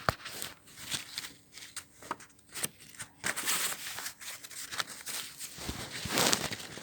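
Sheet of paper being folded and creased by hand: irregular rustling and crinkling with sharp little clicks and taps, loudest in two short bursts, one about halfway through and one near the end.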